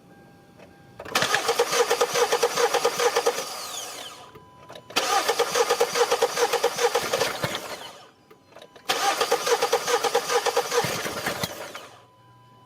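Car engine cranking on its starter three times, about three seconds each, with fast even pulses and no catch: it cranks but won't start.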